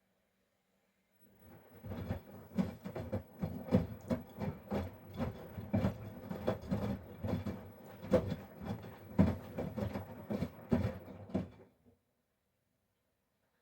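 Miele Professional PW 6065 Vario washing machine in its main wash: the drum turns for about ten seconds, tumbling a load of soft toys through the wash water with irregular sloshing and soft knocks, then stops for its pause between turns.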